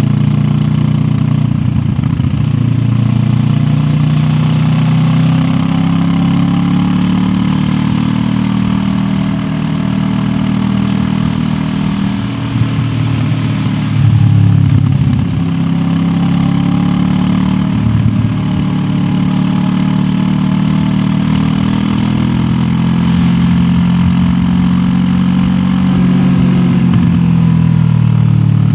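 QJ Motor SRT 700X parallel-twin engine running on the move, its pitch rising and falling as the throttle opens and closes through the gears. There is a brief louder burst of throttle about halfway through.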